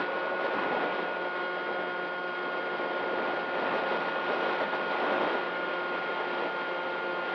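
Electric motor of an RC model plane running at a steady whine over a constant rush of air noise.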